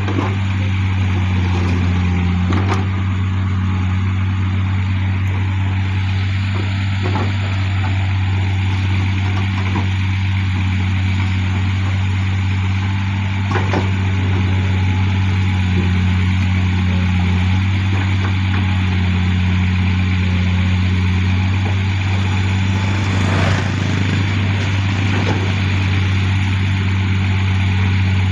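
Heavy diesel machinery running steadily with a constant low hum, broken by a few sharp knocks.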